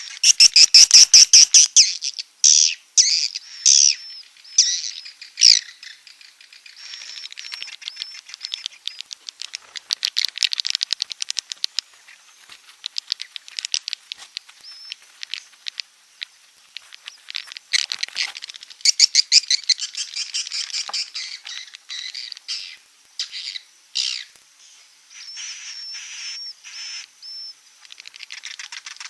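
Swiftlet calls used as a roosting lure: rapid trains of clicks and high, buzzy chirps, coming in loud bursts with quieter stretches between.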